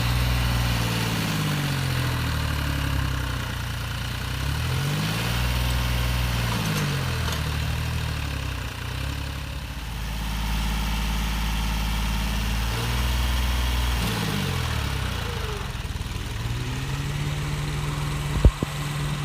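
Heavy vehicle engines running under tug-of-war load, their revs rising and falling again and again. A single sharp knock comes near the end.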